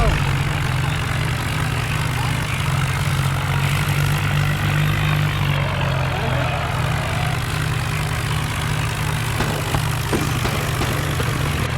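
Diesel tractor engines running steadily.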